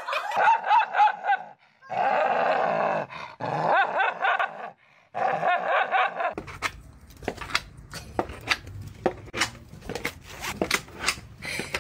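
A dog barking and growling in short bouts, followed by a run of short sharp clicks over a low hum.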